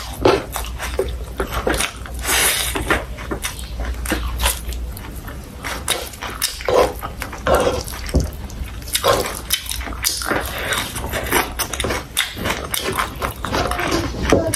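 A person chewing food with wet, smacking mouth sounds, a quick irregular run of short clicks and squelches.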